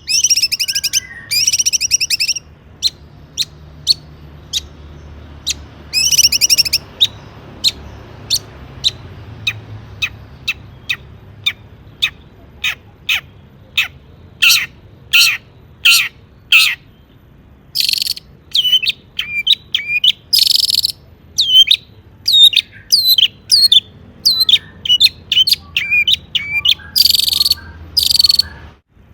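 Long-tailed shrike (cendet) singing: quick sharp chips and short whistled notes broken by several harsh, rasping chatters, the longest about a second in and again near the end.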